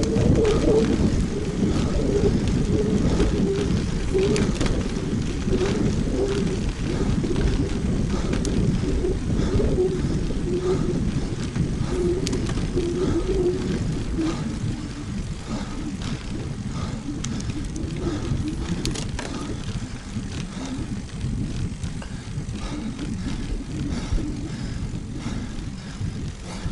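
Wind rushing over an action camera's microphone and tyres rolling on pavement while riding a road bike, with a faint wavering hum in the first half; the noise eases off about halfway through.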